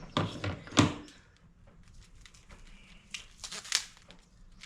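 Pressure washer hose ends being pushed into their locking quick-connect fittings: two short clusters of plastic knocks and clicks, about a second apart from the start and again near the end.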